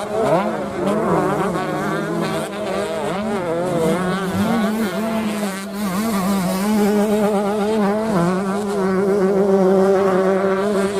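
125 cc two-stroke motocross bikes racing, their engines buzzing and revving, pitch rising and falling continually with throttle and gear changes.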